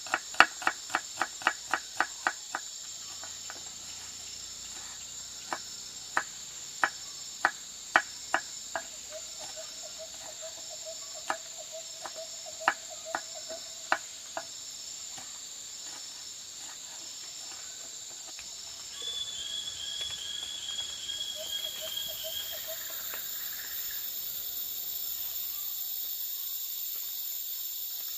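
Steady chirping of crickets and other insects, with a quick run of sharp knocks, about four a second, in the first couple of seconds, then scattered single knocks until about halfway. Near the end the background gets a little louder, with an extra high insect buzz.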